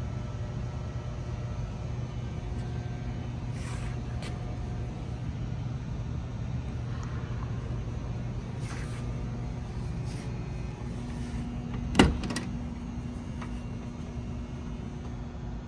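Steady low hum of a large indoor hall, with a few faint short sounds and one sharp knock about twelve seconds in.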